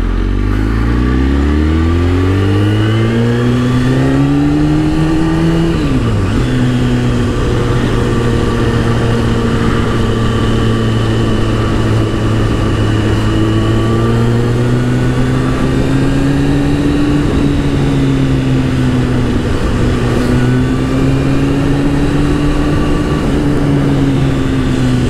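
A 2004 Kawasaki ZX-10R's inline-four engine accelerates, its note rising for about six seconds. The pitch then drops sharply and holds a steady low cruise, rising and falling slightly.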